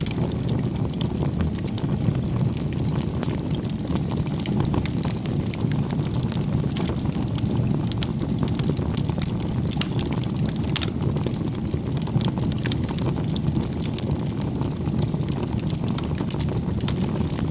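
Wood fire burning: a steady low rush of flames with frequent sharp crackles and pops.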